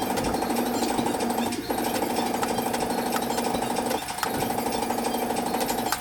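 A power tool running with a fast, rattling stroke on car body sheet metal, stopping for a split second twice.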